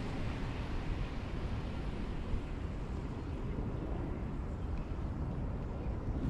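Steady low rumble of wind buffeting an action camera's microphone on open water, with no distinct splashes or strokes.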